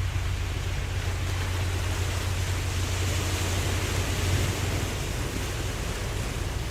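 Ocean waves washing in a continuous rushing hiss that swells about three seconds in, over a steady low rumble.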